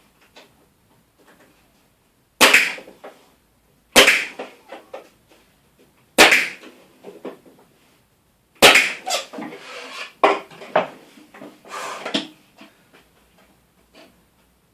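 Pin nailer firing pins into 9 mm plywood: four sharp single shots a couple of seconds apart, then a run of lighter knocks and clatter for a few seconds.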